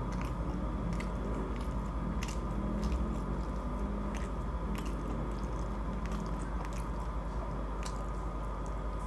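A person chewing and biting into a spicy chicken burger with apple slices, close to the microphone: irregular wet mouth clicks and smacks. A steady background hum runs underneath.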